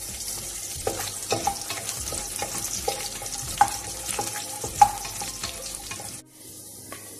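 Cashew nuts and whole spices sizzling in hot ghee and oil in a pressure cooker, stirred with a spatula that scrapes against the pot. The sizzle quietens sharply about six seconds in.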